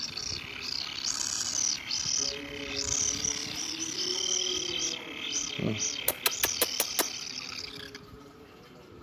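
Kingfisher chick giving its repeated high, alarm-like begging call, a steady series of short arched notes that fades out near the end. A quick run of about six sharp clicks comes about two-thirds of the way in.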